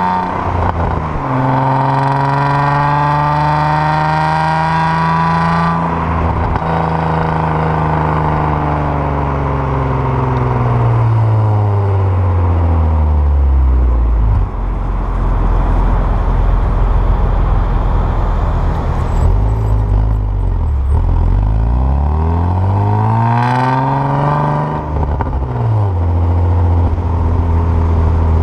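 Raspy exhaust of a 2002 Nissan Maxima's 3.5-litre VQ35DE V6, straight-piped with no resonator behind equal-length headers, pulling through the gears of its six-speed manual while driving. The pitch climbs and drops at shifts about a second and six seconds in, sinks as the car slows and settles low, then climbs again from about twenty seconds in before another drop near twenty-five seconds.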